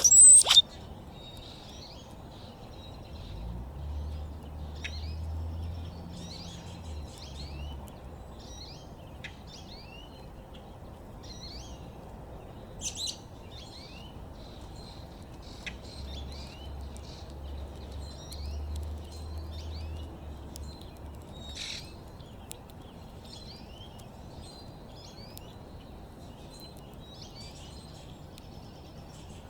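Several backyard songbirds chirping and trilling in short, scattered calls, with one loud, sharp call right at the start. A low rumble comes and goes twice underneath.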